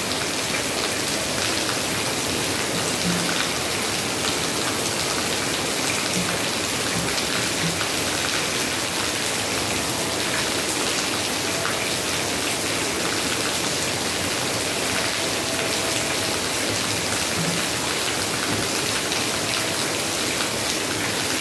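Heavy rain falling steadily on a concrete yard.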